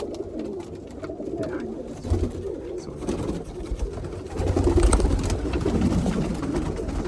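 Domestic pigeons cooing in a loft, a steady chorus of low wavering coos. A low rumble comes in briefly about two seconds in and again, louder, from about four and a half seconds.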